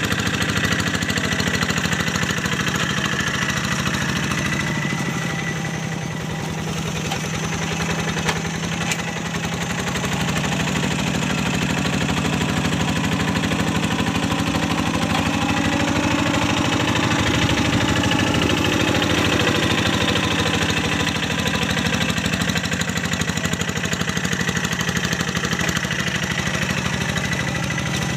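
Single-cylinder diesel engine of a Quick G1000 Boxer two-wheel hand tractor running steadily under load while ploughing a rice paddy, its note easing slightly a few seconds in before picking back up.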